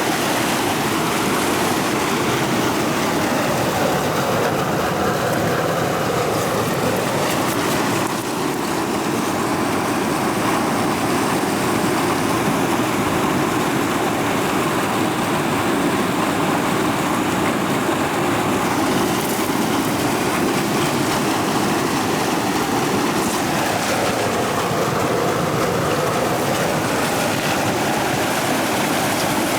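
A forest creek rushing over rocks: a steady, loud, unbroken wash of water.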